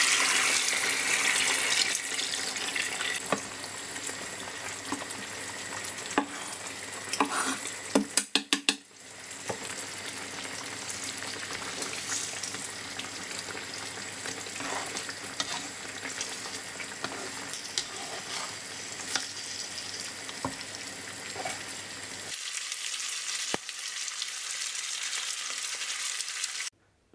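Chicken adobo sizzling and simmering in coconut milk in a frying pan, stirred with a spatula, with coconut milk pouring in at first. A quick run of sharp clicks about eight seconds in, and the sizzle cuts off suddenly just before the end.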